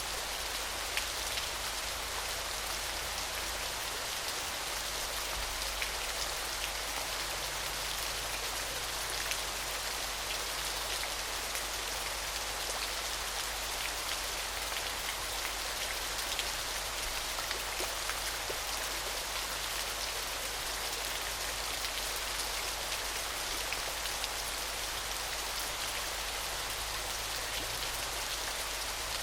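Small waterfall: water falling and splashing steadily, a bright even hiss full of fine droplet splashes.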